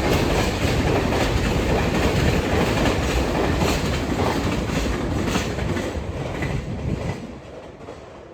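Container freight train passing at speed, its wheels clattering over the rail joints. The noise falls away about seven seconds in as the last wagons go by.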